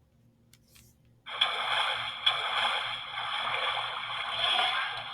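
Water splashing and sloshing, starting suddenly about a second in and going on steadily. The narrator takes it for an animal playing in the water.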